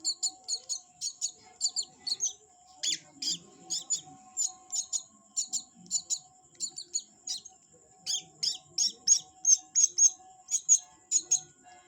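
A small bird chirping: short, high chirps in quick runs of two to four, repeated with brief pauses between runs.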